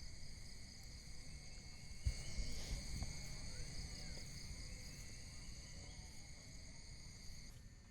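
Insects, crickets among them, chirring steadily in several high continuous tones over a low rumble, the chorus cutting off abruptly near the end.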